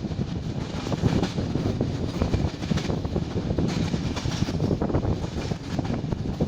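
BDZ fast train running along the track, a steady rumble of wheels on rail with dense, uneven clatter.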